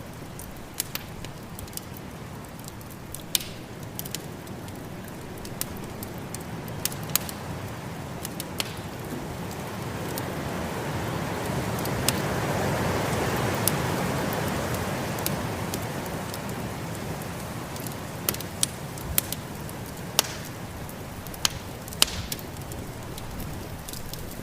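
Wood fire in a fireplace crackling, with sharp pops scattered throughout, over the steady rush of a snowstorm's wind that swells into a gust about halfway through and then eases off.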